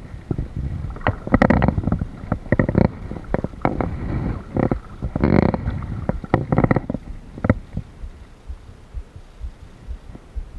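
Kayak being paddled: irregular splashes and knocks of the paddle strokes against the water and hull, over a low rumble.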